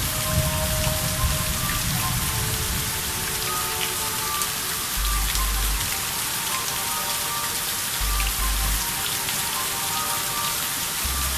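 Heavy rain falling steadily during a tropical storm, an even hiss of drops on surfaces.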